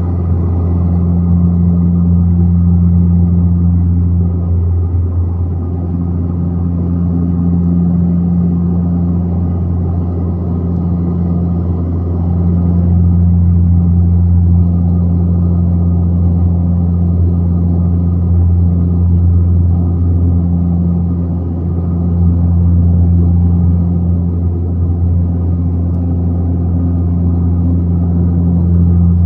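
A passenger plane's engines droning steadily in flight, heard from inside the cabin, with a deep hum that swells and eases slightly now and then.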